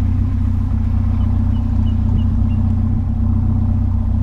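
Vehicle engine running, heard from inside the cab as a steady low drone. A few faint high chirps sound in the middle.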